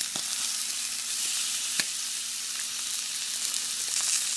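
Ahi tuna steaks sizzling steadily in a hot grill pan as they are turned over with tongs, with a few light taps.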